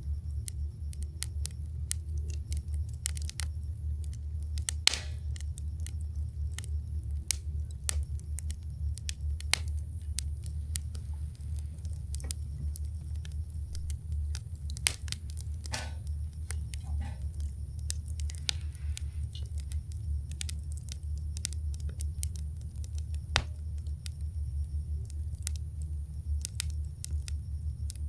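Wood campfire burning, with irregular sharp crackles and pops throughout and a few louder snaps, over a steady low rumble.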